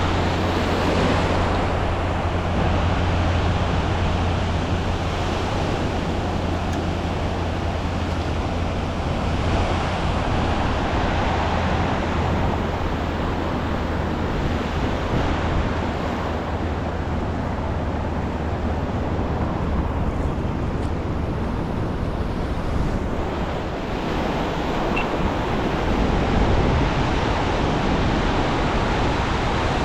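Ocean surf washing onto the beach, a steady rush of water noise, under a constant low rumble.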